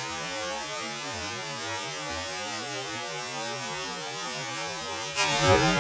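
Muffled underwater bubbling and gurgling with the microphone submerged in the pool after a jump. About five seconds in, the microphone comes back above the surface and the rush of the waterfall returns.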